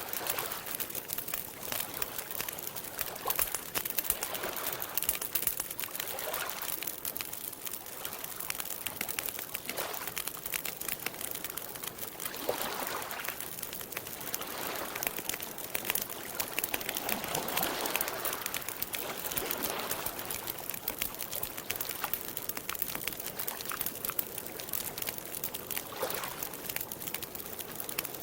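Campfire crackling with frequent small pops, over water lapping gently in soft swells every few seconds.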